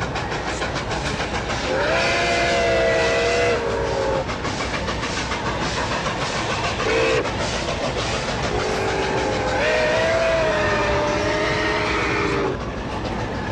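A train at a station sounding its multi-tone horn twice, each blast a chord lasting about two to three seconds, several seconds apart. Under it runs a steady rumble with quick wheel-on-rail clicking.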